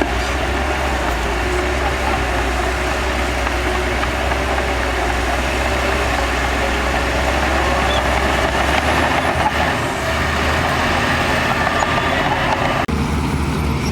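Heavy diesel earthmoving machinery running steadily, a deep engine drone under a dense wash of noise. The sound changes abruptly near the end.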